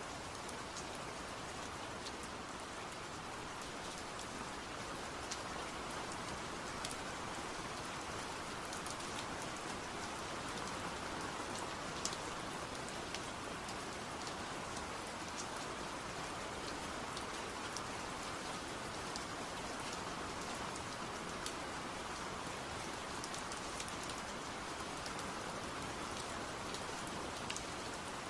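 Steady rain falling: an even hiss with many scattered ticks of individual drops hitting a surface.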